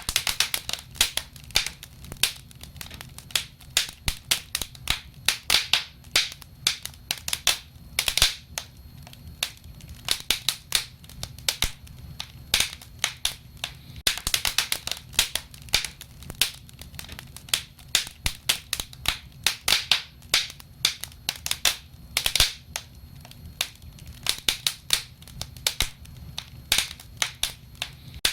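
Wood fire crackling: dense, irregular sharp pops and snaps over a low steady rumble of the burning fire.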